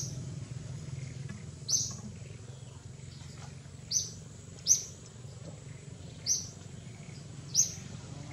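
A bird giving short, sharp high-pitched chirps, about six of them spaced one to two seconds apart, over a steady low background rumble.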